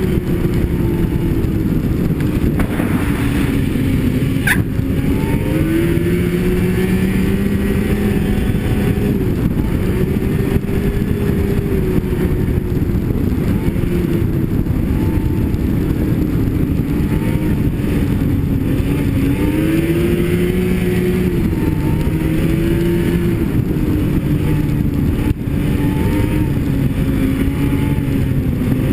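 Snowmobile engine running under way, its pitch rising and falling as the throttle changes, over a steady rush of noise. A single sharp click about four and a half seconds in.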